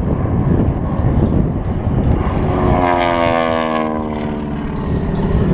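Grumman Ag Cat biplane's radial engine and propeller passing by, about halfway through a clear droning tone that slides down in pitch as it goes past and then fades, over a low rumble.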